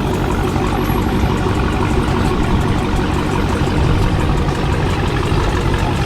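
Car engine running steadily at low revs, a continuous low rumble.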